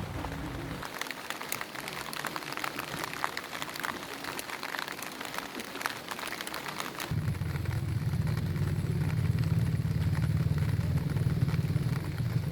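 Rain pattering with many small sharp drop ticks; about seven seconds in, a low steady engine hum, like a motorcycle idling or passing slowly, comes in and holds as the loudest sound.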